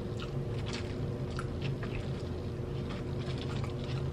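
Close-miked chewing: scattered short crunches and wet mouth clicks over a steady low hum.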